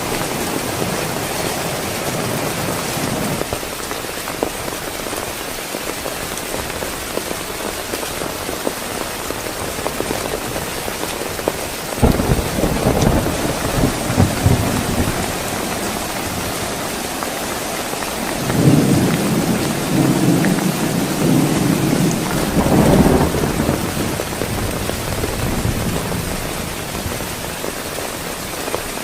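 Heavy rain falling steadily. Thunder rolls twice in the second half: a shorter rumble about twelve seconds in, and a longer one about six seconds later.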